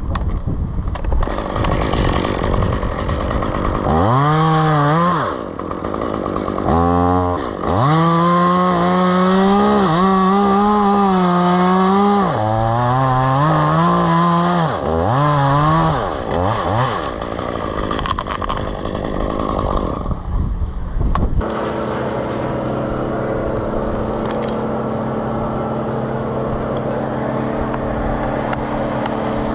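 Gas chainsaw revving hard, its engine pitch rising and dipping repeatedly as it works through wood, then settling to a steady idle for roughly the last third.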